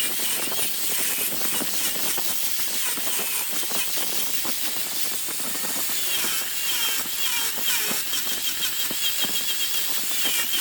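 A large wood lathe spinning a workpiece while a tool works against it: a steady hiss with many small clicks, and a wavering high squeal that comes and goes, strongest in the second half.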